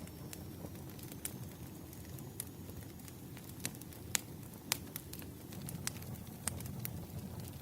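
Firewood burning: irregular sharp crackles and pops over a steady low noise of the flames, with the two loudest pops about four and four and a half seconds in.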